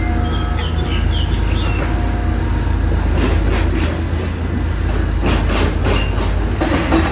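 Construction-site noise: a steady deep rumble of heavy machinery, with short high squeaks in the first second or two and a run of metallic clattering from about three to six seconds in.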